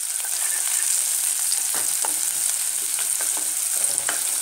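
Chopped onion, crushed garlic and curry leaves sizzling in hot oil in a pan, stirred with a wooden spatula that scrapes and knocks against the pan every so often over the steady hiss.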